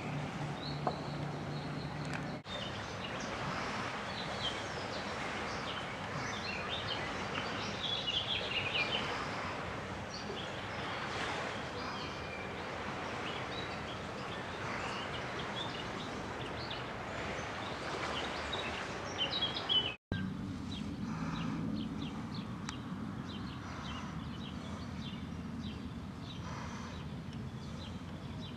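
Birds chirping intermittently over a steady outdoor background hiss. A low steady hum comes in after a short break about two-thirds of the way through.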